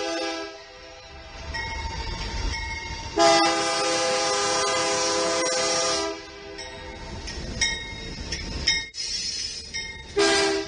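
Diesel freight locomotive's air horn sounding a multi-note chord: a blast that ends just after the start, a long blast of about three seconds, a few short toots, and another short blast near the end, over the low rumble of the passing train.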